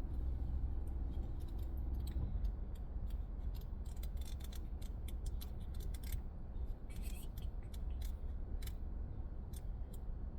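Light, irregular clicks and rustles of cards and paper being handled, with a low steady hum that cuts off about two seconds in.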